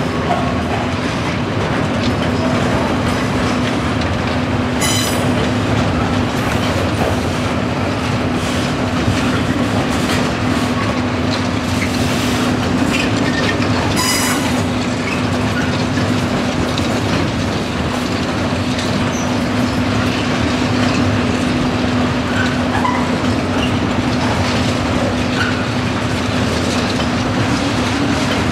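Container wagons of a long intermodal freight train rolling past, a steady rumble of wheels on rail with a steady low hum underneath. Two brief high-pitched wheel squeals, about 5 and 14 seconds in.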